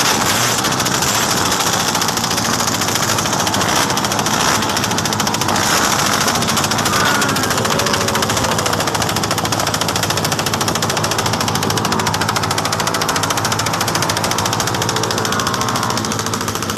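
Modified Honda TMX 125 single-cylinder four-stroke engine, upgraded to high compression, running steadily with a fast, even firing pulse.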